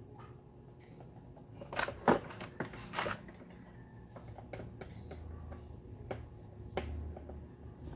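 Scattered clicks and knocks of small blender parts and tools being handled during a repair. The loudest is a sharp knock about two seconds in, with a faint low rumble later on.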